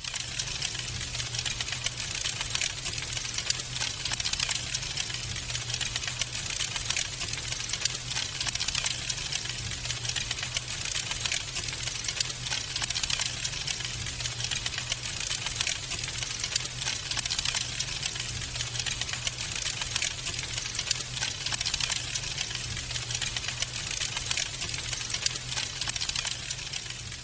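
Wood fire crackling steadily, a dense run of small snaps with an occasional louder pop, over a low steady hum.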